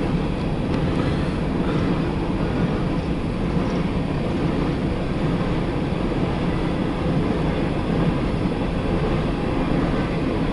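Empty CSX coal hopper cars rolling past on the rails, a steady rumble of wheels and cars.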